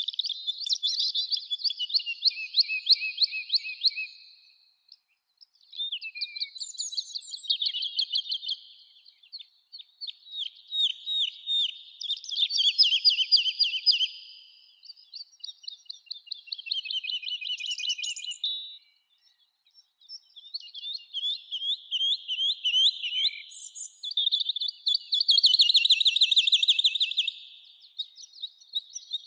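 A songbird singing loud, rapid trilling phrases, each about three to four seconds long, repeated with short pauses of about a second between them.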